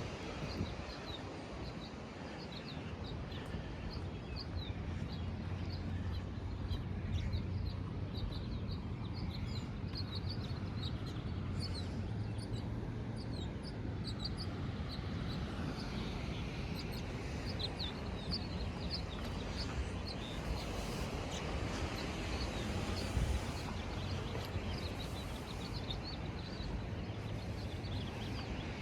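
Small birds chirping in many short, high notes scattered throughout, over a steady low outdoor rumble.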